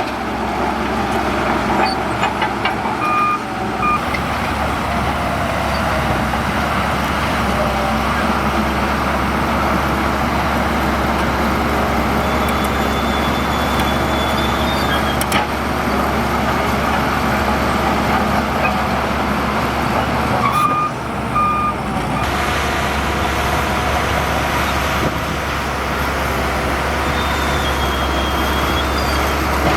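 Heavy diesel earthmoving machinery, dump truck and bulldozer, running steadily under load. Short electronic beeps sound twice: a pair about 3 seconds in and another pair about 21 seconds in.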